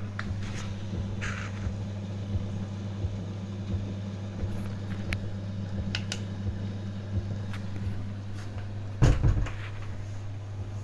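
Hoover DYN 8146 washing machine running a wash cycle: a steady low motor hum with light clicks and swishes as the drum turns the laundry, and a louder thump about nine seconds in.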